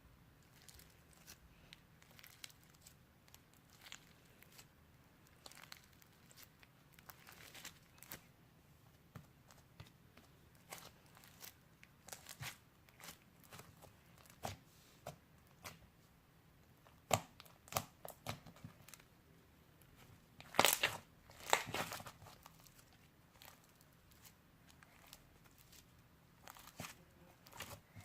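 Slime being handled and mixed by hand: faint, scattered sticky crackles and clicks, with a few louder crackling bursts about two-thirds of the way through.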